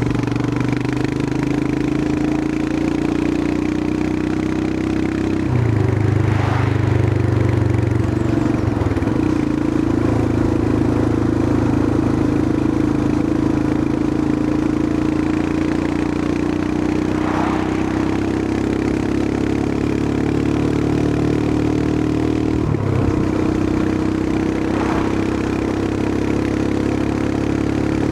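Royal Enfield Himalayan 411's air-cooled 411 cc single-cylinder engine running steadily under way. The engine note shifts abruptly about five seconds in and again near the end.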